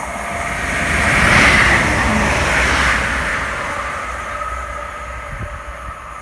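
Greater Anglia Class 755 train passing at speed: the rush of its wheels and running gear swells to a peak about a second and a half in, then fades as it runs away down the line.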